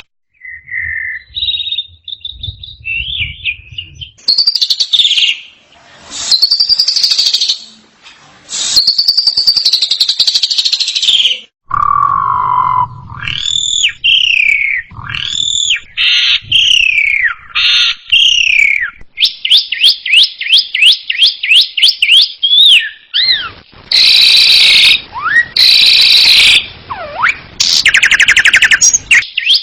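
Pied starling (jalak suren) singing loudly. It gives a varied string of clear whistles and slurred notes, then about two-thirds of the way through breaks into fast runs of repeated chattering notes.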